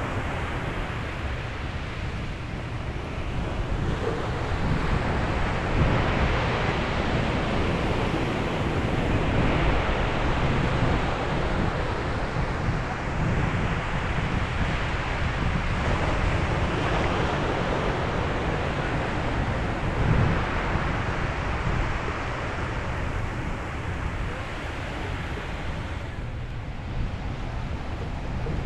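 Sea waves breaking on a beach, the surf swelling and easing every few seconds, with wind rumbling on the microphone.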